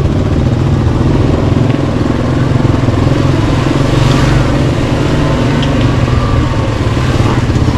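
Yamaha Kodiak 700 ATV's single-cylinder four-stroke engine running steadily under way on a dirt trail, with a brief hiss about four seconds in.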